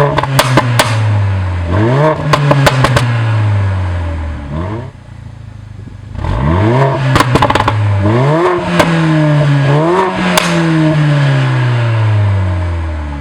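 The 2016 Mercedes-AMG GLA45's turbocharged 2.0-litre four-cylinder blipped about five times with the performance exhaust in Race mode, each quick rise in revs falling back with a string of sharp pops and crackles. Midway it settles briefly to idle before the next revs.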